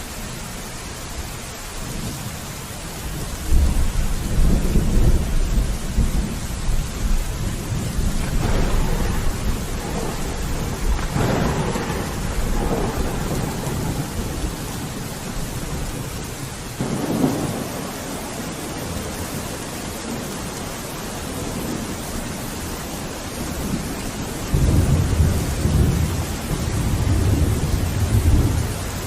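Steady rain with thunder rumbling: a long low rumble starts about 3 seconds in, sharper crackling peals follow around 9 to 13 seconds and again briefly around 17 seconds, and another low rumble comes near the end.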